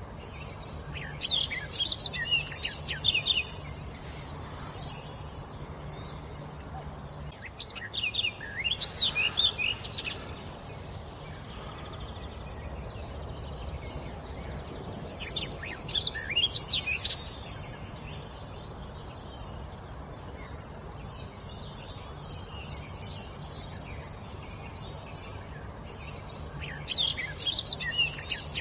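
A songbird singing in short bursts of rapid, varied high notes, four phrases about eight seconds apart, over faint steady background noise.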